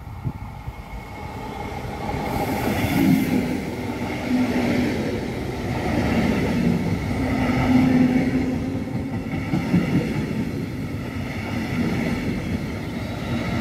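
A train passing, its running and wheel noise growing over the first two seconds and then staying loud, with a steady hum under it.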